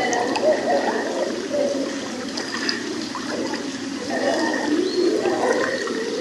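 Floodwater rushing through a street after heavy rain, a steady noise of running water.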